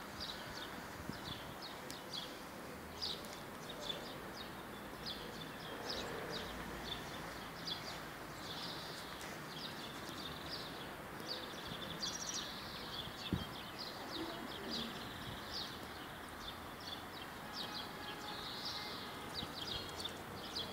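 Small birds chirping on and off, many short high chirps, over a steady background hiss.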